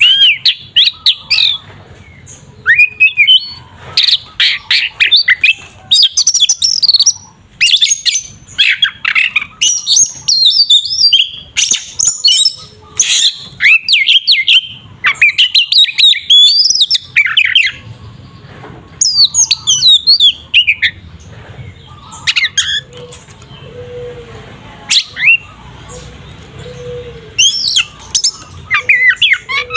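An Oriental magpie-robin (kacer) sings loudly in rapid, varied whistled phrases: the combative 'fighting' song that keepers play to rouse other kacer. The song is dense for the first half, thins to occasional phrases in the middle, and picks up again near the end.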